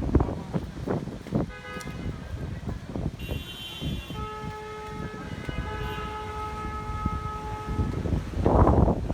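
Car horns honking on a street: a couple of short honks, then a long blast lasting several seconds with one brief break. Gusting wind on the microphone underneath, rising again near the end.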